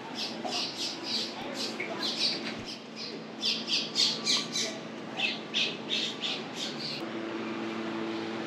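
Birds squawking in quick runs of short, sharp, high calls, several a second, loudest around the middle. The calls cut off suddenly about seven seconds in, leaving a steady low hum.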